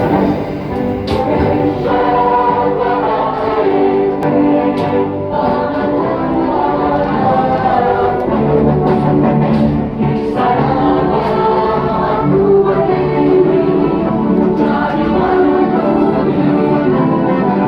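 A group of many voices singing a song together in chorus.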